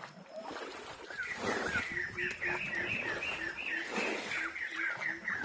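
A bird calling in a quick run of short, repeated chirps, about four or five a second, starting about a second in, with a lower short note repeating beneath it. A few brief scuffling noises come through alongside.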